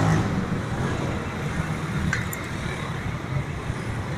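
Steady rumble of passing road traffic, with a couple of faint light clicks about two seconds in.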